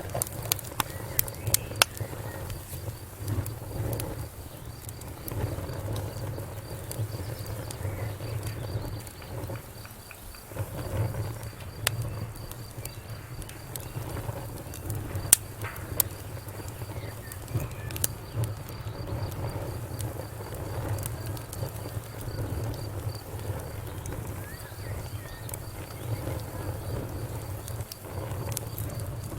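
Wood fire crackling: irregular sharp pops and snaps, one louder pop about halfway through, over a steady low rumble of burning.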